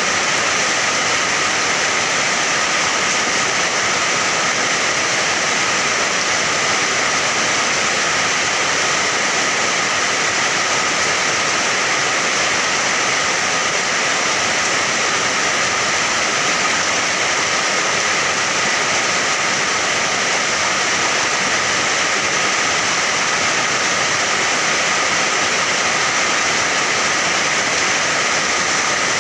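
Steady rain falling, a constant even hiss with no breaks or distinct drops standing out.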